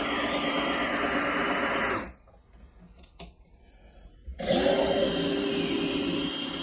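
Power drill running under load while driving a decking screw into wood, its pitch sagging, then stopping about two seconds in. After a short pause with one small click, it starts again and runs steadily.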